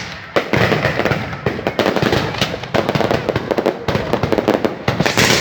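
Fireworks going off in a dense, rapid series of loud bangs and crackles, with a brief lull just after the start.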